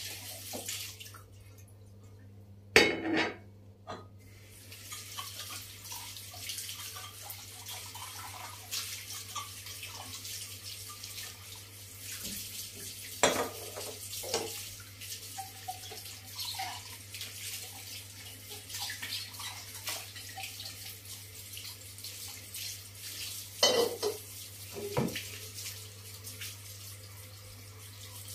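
Kitchen tap running into a sink from about four seconds in, with dishes clinking now and then. A sharp clatter of crockery is the loudest sound, just before the water starts, and there is a low steady hum.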